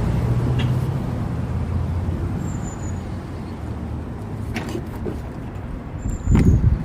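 Car engine idling with a steady low hum, a few light clicks, and a loud low thump near the end.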